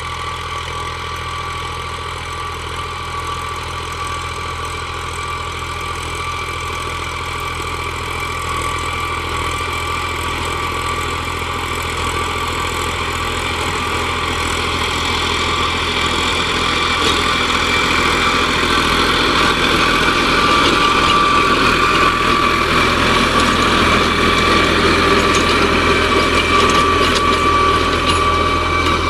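New Holland tractor's diesel engine running steadily, with a steady whine on top, growing louder over the first twenty seconds or so and easing slightly near the end.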